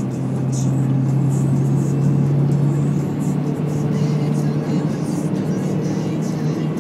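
Car engine droning steadily at a constant pitch, heard from inside the cabin, over a wash of road noise.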